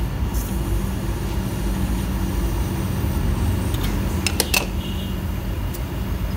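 Steady hum of a small electric motor running, most likely the refrigerator compressor pumping refrigerant through the lines. A few light metallic clicks come about four and a half seconds in.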